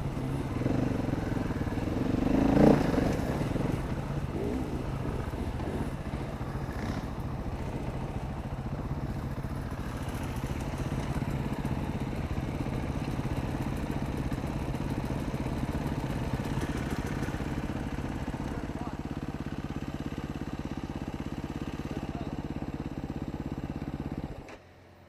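Dirt bike engine running steadily, with a brief swell in loudness about two and a half seconds in; the sound cuts off abruptly just before the end.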